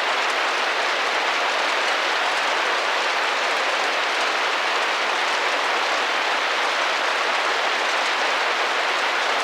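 Rain drumming gently against a glass window pane: a steady, even patter with no letup.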